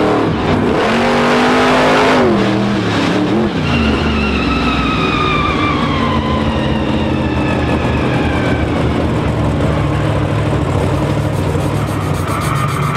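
Monster truck's supercharged V8 engine revving hard, its pitch rising and dipping in the first few seconds over a rush of noise. The engine note then falls slowly as the revs come down.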